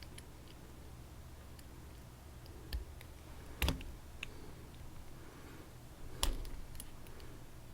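Light metallic clicks and taps of small hand tools, a hex key or driver bit being fitted to a padlock's tiny hex screw. Two louder clacks stand out, one around the middle and one near the end.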